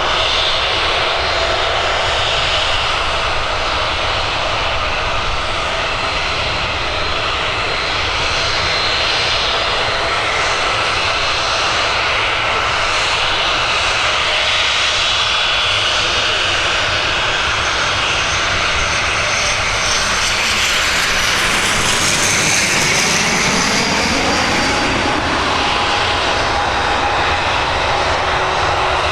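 Boeing 737-800 airliner's CFM56-7B turbofan engines running loud and steady as the jet departs. In the later part the engine tones glide upward in pitch.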